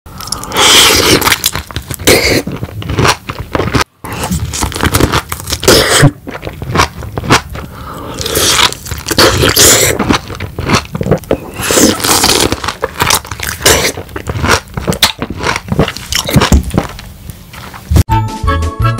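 Close-miked biting and chewing of a whole peeled lemon: a dense run of crunches and mouth noises, with a brief dropout about four seconds in. Near the end, music begins.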